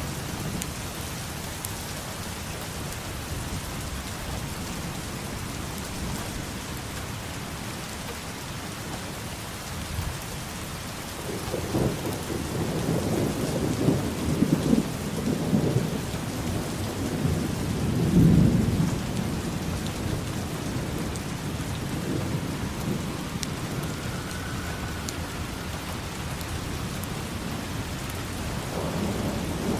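Steady rain falling, with a long roll of thunder that rises about a third of the way in, peaks a little after the middle and fades away; another low rumble of thunder begins near the end.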